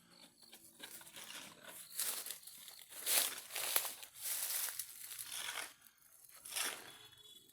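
Rustling, crinkling noise in a series of uneven bursts.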